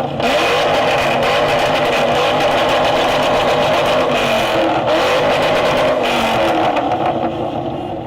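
Car running hard at high revs, a loud, sustained crackling run that eases off slightly in the last second.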